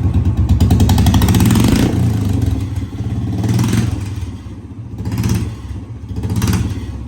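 Royal Enfield Bullet's single-cylinder engine running loud with no exhaust fitted. It is held high for about two seconds, then blipped up and down three times.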